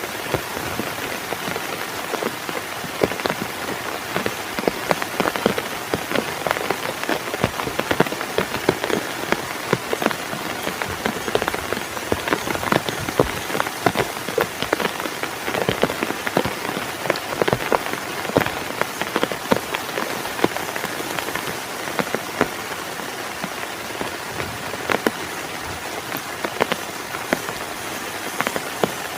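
Heavy rain falling steadily, with many large drops striking a close surface as sharp, irregular taps over the constant hiss.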